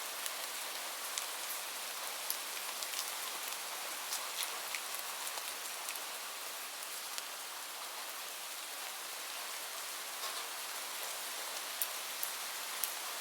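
Steady gentle rain hiss, with scattered sharp crackles and pops of a wood fire at irregular moments.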